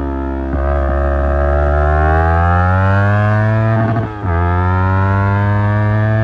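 Yamaha R25 parallel-twin engine through an Akrapovic exhaust, accelerating hard: the revs climb steadily, drop sharply about four seconds in with a quick upshift, then climb again.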